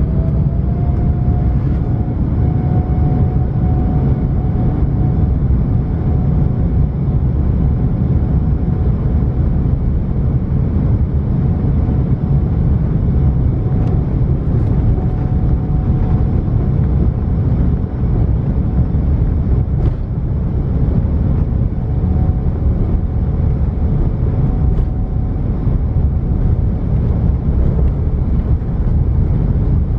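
Steady cabin roar of an Airbus A330-900 climbing after takeoff, its Rolls-Royce Trent 7000 engines at climb power, heard from a seat behind the wing. A faint whine rises slightly and levels off about a second in, then holds under the roar.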